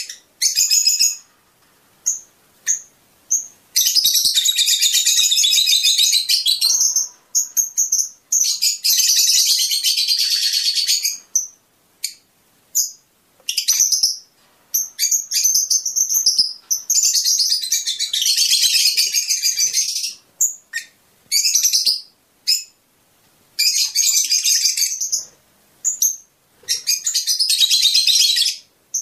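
Fischer's lovebirds chattering in long shrill bursts of a few seconds each, broken by short sharp chirps and brief pauses. This is the chatter used to stimulate pairs to mate and sing.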